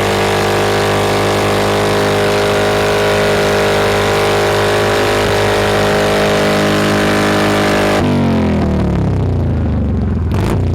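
Harley-Davidson Street Glide V-twin engine held at high revs, steady and loud, then dropping about eight seconds in and falling back toward idle, with a short sharp pop near the end.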